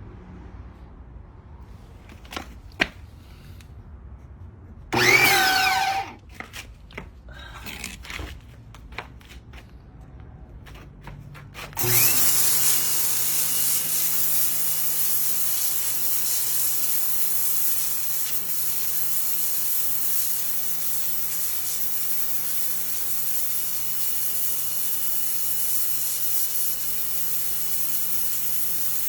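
Electric pressure washer: a brief burst of its motor with a gliding whine about five seconds in, a few clicks and knocks, then about twelve seconds in the motor starts and runs steadily under the hiss of the water spray.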